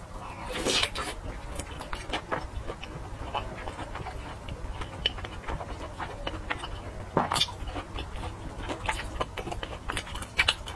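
Close-miked eating of a sausage: a bite near the start, then chewing with many irregular wet clicks and lip smacks.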